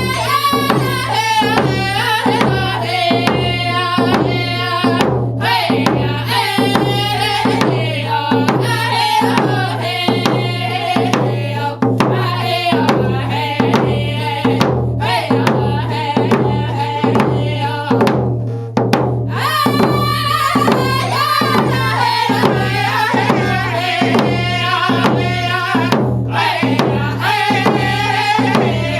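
Round dance song: voices singing phrases that start high and fall in pitch, over a steady, even drumbeat.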